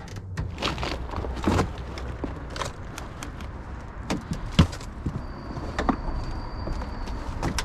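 Scrap being handled and shifted at a truck: scattered knocks, clunks and rattles, one sharper knock a little past halfway, over a steady low hum. A faint high whine runs for about two seconds near the end.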